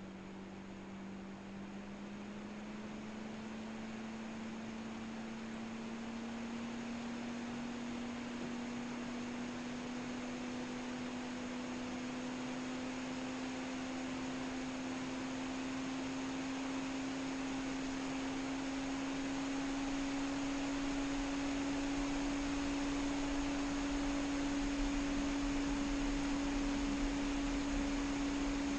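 A 12 V fan running off a 220 V/12 V adapter with speed control, its hum rising slowly and steadily in pitch and growing louder as the speed is turned up.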